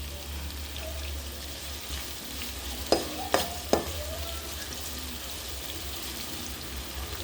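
Onions frying in oil in a kadai with a steady sizzle. Three sharp knocks come in quick succession about three seconds in.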